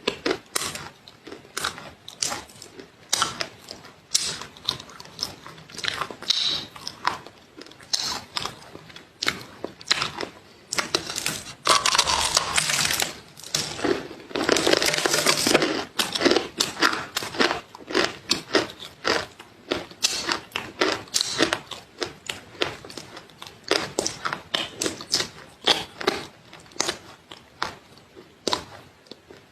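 Close-miked crunchy food being bitten and chewed: rapid, irregular sharp crunches, with two longer stretches of denser crackling near the middle.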